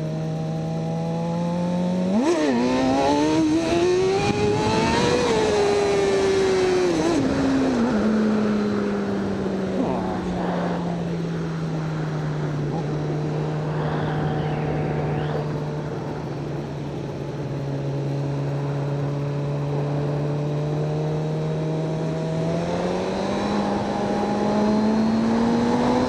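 Suzuki GSX-R600 sport bike's inline-four engine under way: revs rise sharply about two seconds in and climb for a few seconds, then fall back to a steady cruise and build again near the end, with wind noise rushing over the microphone.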